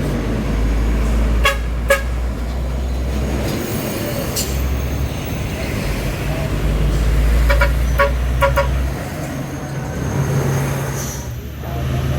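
Heavy truck engine running under load with a deep, steady rumble, with short horn toots over it: two about a second and a half in, and a quick run of about four near eight seconds.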